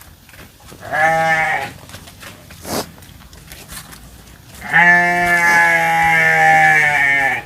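A farm animal bleating twice: a short bleat about a second in, then a long drawn-out bleat lasting nearly three seconds.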